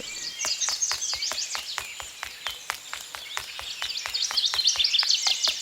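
Small birds twittering with quick high chirps, louder near the end, over a rapid even clicking of about six clicks a second.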